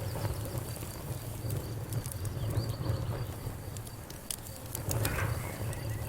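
Wood fire crackling, with irregular sharp pops over a low steady rumble of flames. A faint, high, evenly pulsing trill runs in the background.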